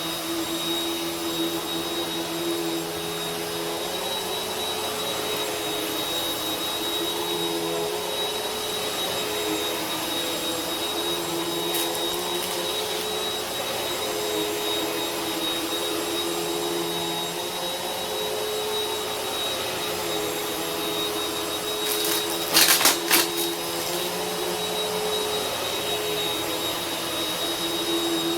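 Vacuum cleaner running steadily, its motor humming with a high whine over it and slowly wavering in level. A short burst of sharp crackles about three quarters of the way through.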